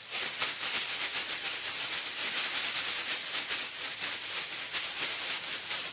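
Sound effect of heavy rain: a steady, dense rattling hiss that stops at the end.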